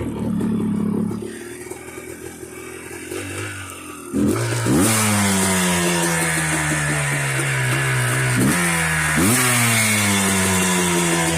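1994 Yamaha Blaster's 195 cc two-stroke single running through an FMF Fatty expansion pipe and Powercore 2 silencer. It runs low and quieter at first, then revs sharply about four seconds in, the pitch sinking slowly afterwards. Two more quick rev-ups follow a few seconds later.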